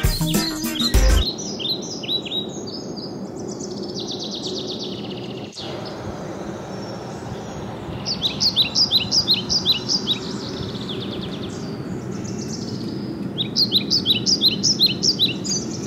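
Small songbirds chirping: series of quick, high chirps, with dense runs about halfway through and again near the end, over a steady hum of outdoor background noise.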